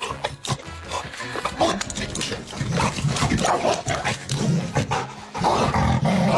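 A dog making a run of irregular vocal noises, which get louder from about two and a half seconds in.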